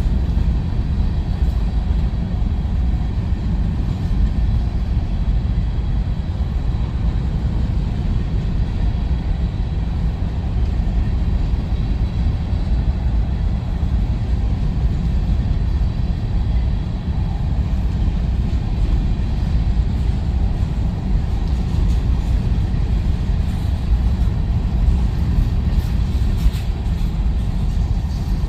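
A freight train rolling past: a steady low rumble that does not let up.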